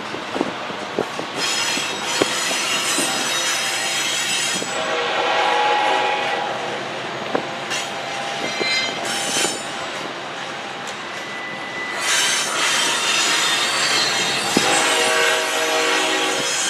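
Freight train rolling past with its wheel flanges squealing in long high-pitched stretches, over a steady rumble and scattered sharp clicks of wheels on the rails.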